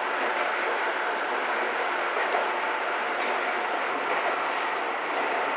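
Seibu 6000 series electric train running along the track, a steady rolling noise of wheels on rail heard from inside the front of the train, with a few faint clicks from the rails.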